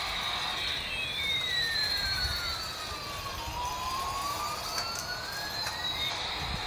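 Electronic toy sound effect: two synthetic tones slowly glide apart and back together over about six seconds, one sweeping down and back up, over a steady hiss. The cycle starts again near the end.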